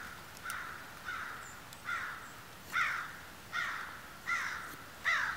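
A bird calling over and over in a series of about eight short calls, each under a second apart, at an even pace.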